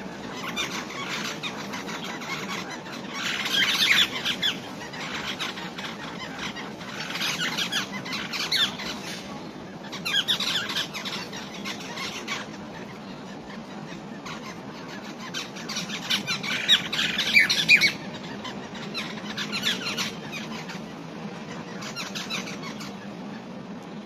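Birds in a tree giving harsh, chattering squawks in bursts of one to two seconds, about seven times over, with steady background noise beneath.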